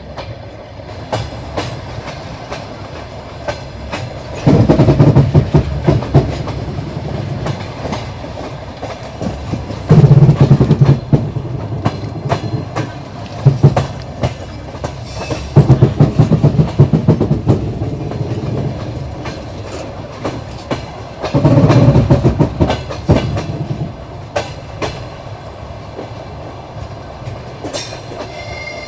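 Passenger train carriage wheels clicking rhythmically over rail joints under a steady running rumble, heard from the carriage window. Several times the clacks come in loud close-packed clusters.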